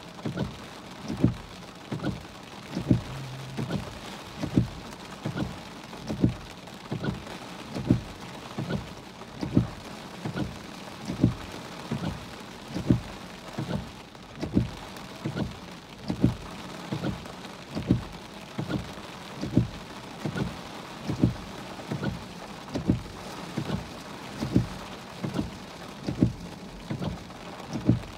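Heavy rain on a car, heard from inside, with windshield wipers thumping at a steady beat a little more than once a second.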